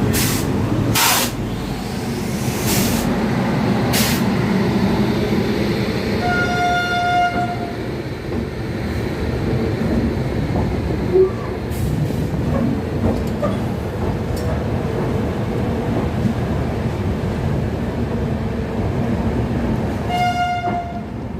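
Steady rumble of railway trains, with a few sharp knocks in the first few seconds. A train horn sounds twice, held about a second the first time some six seconds in, and again briefly near the end.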